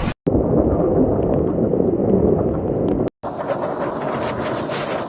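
Strong cyclone wind blowing hard across the microphone, in separate clips joined by two abrupt cuts; the first clip sounds muffled, the second brighter and hissier.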